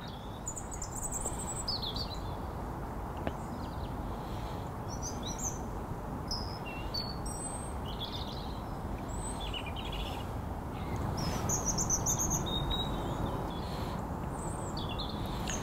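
Small birds chirping, with many short high calls scattered throughout, over a steady low outdoor background hiss.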